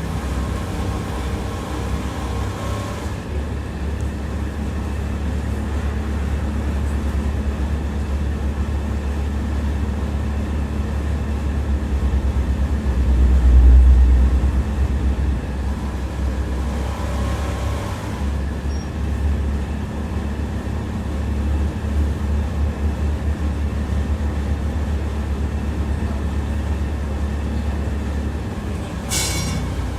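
A tram running along its line, heard from on board: a steady low rumble of wheels and running gear on the rails that swells about halfway through. A faint whine rises over it in the first few seconds and again just past the middle, and there is a brief high-pitched sound near the end.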